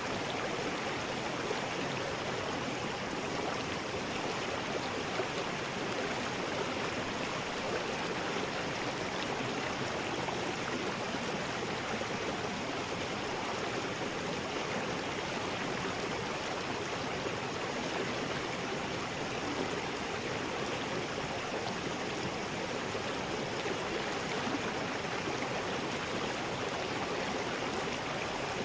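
River rapids: water rushing steadily over rocks, an unbroken churning wash with no change in level.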